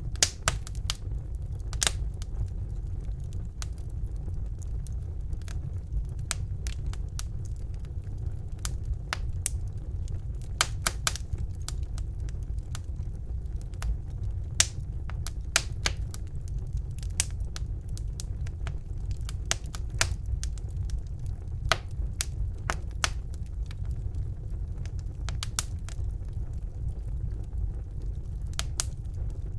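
Wood fire burning in a fireplace: irregular sharp crackles and pops from the burning logs, sometimes several close together, over a low steady rumble of the flames.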